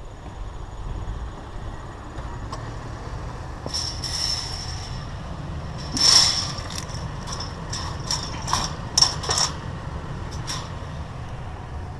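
A steady low vehicle rumble with a run of sharp, high metallic squeaks and clatters from about four to ten seconds in, the sound of scrap metal shifting and grating.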